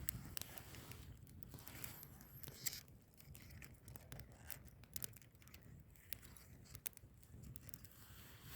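Wood fire burning quietly, its logs crackling with scattered small pops and snaps.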